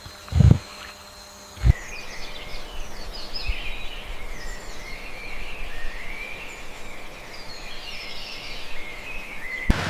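Two heavy, low thuds in the first two seconds, then outdoor ambience with birds chirping and insects.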